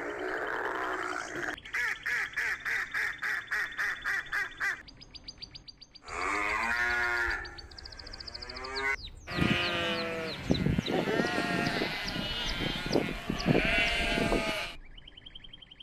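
A flock of sheep bleating, with many overlapping calls, through the second half. Before it come shorter clips of other animal calls, including a run of rapid repeated calls.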